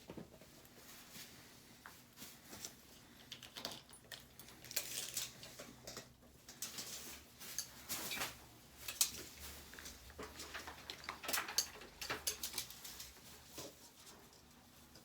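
Irregular rustling, scraping and light clicking of hands at work, busiest through the middle, over a faint low steady hum.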